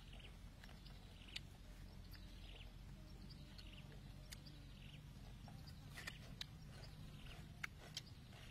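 Quiet outdoor eating: a few faint, sharp chewing and mouth clicks, more of them near the end, over a steady low hum, with faint bird chirps repeating in the background.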